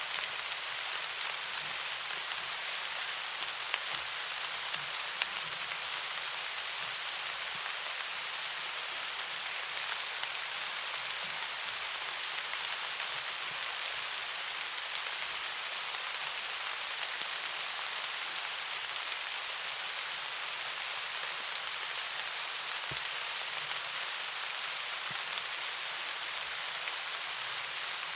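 Steady rain falling, an even hiss with a few faint sharp ticks here and there.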